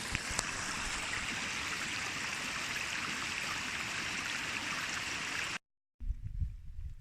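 Heavy storm rain pouring in a steady hiss. It cuts off suddenly about five and a half seconds in, and after a brief silence an uneven low rumble follows.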